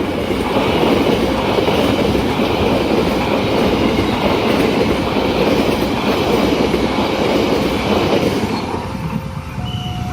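Train passing close by at speed, its wheels clattering over the rail joints in a loud, steady rush that dies away about eight and a half seconds in. A few steady tones set in near the end.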